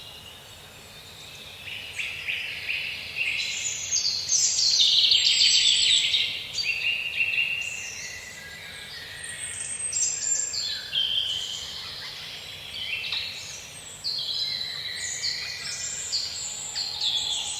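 Several songbirds singing over one another in a forest, a dense run of trilled and warbling phrases, after a brief lull at the start.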